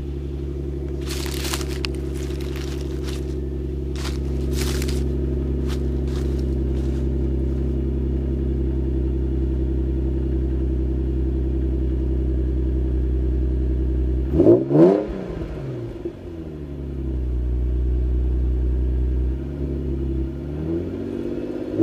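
2004 Infiniti G35's 3.5-litre V6 idling steadily through its exhaust, with some scattered clicks during the idle. About fourteen seconds in, it is blipped twice in quick succession, the pitch rising and falling each time. It then settles back to idle and starts to rev again near the end.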